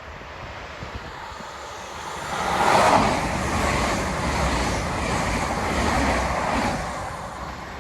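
Diverted Hull Paragon to London St Pancras passenger train passing close by at speed, its rushing noise building quickly about two seconds in and holding for several seconds before fading.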